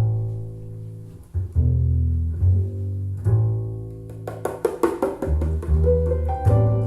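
Music played back through JBL Studio 280 three-way floorstanding loudspeakers: a song's instrumental intro of deep double bass notes, joined about four seconds in by brighter, sharply struck higher notes.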